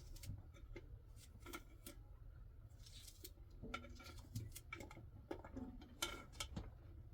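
Scattered light clicks and taps of small objects being handled, over a faint low rumble.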